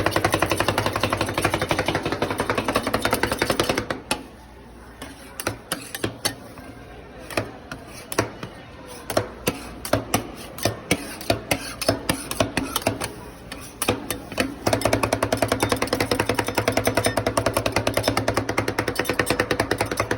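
Metal spatulas chopping fast on a rolled-ice-cream cold plate, a rapid run of knocks. Around four seconds in it slows to separate taps and scrapes for about ten seconds, then the fast chopping starts again.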